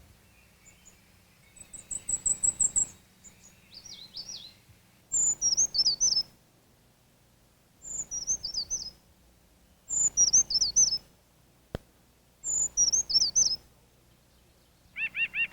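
Brown creeper singing: four high, thin, wavering phrases, each about a second long and a couple of seconds apart, each opening on its highest note and then dropping in pitch. A rapid, very high trill comes earlier, and a single sharp click falls near the end.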